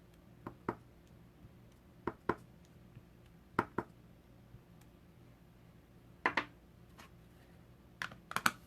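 Light clicks and taps of rubber stamps, clear blocks and paper being handled on a craft tabletop, coming every second or two, often in pairs, with a quick run of clicks near the end.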